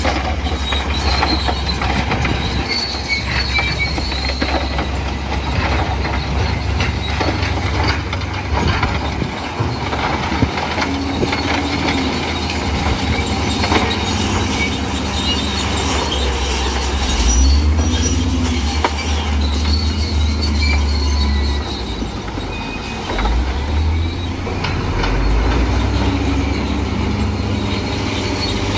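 Bulldozer working in mud: its diesel engine runs under load with a low rumble that swells twice, over intermittent high squealing and clanking from the steel tracks.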